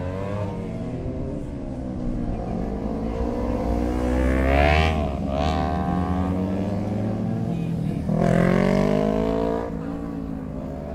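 Kawasaki motorcycle engines revving and accelerating, the pitch climbing to a loud peak about five seconds in and again about eight seconds in, then falling away between.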